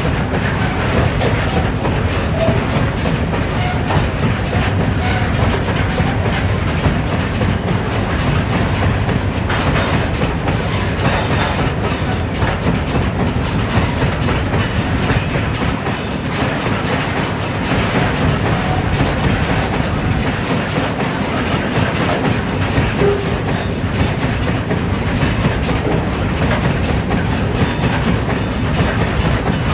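Loaded BCCW covered hopper wagons of a cement goods train rolling past, a loud, steady clatter of many wheels over the rail joints.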